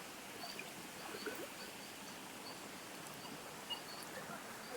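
A small stream's flowing water, a steady faint rush, with a short high chirp repeating about twice a second.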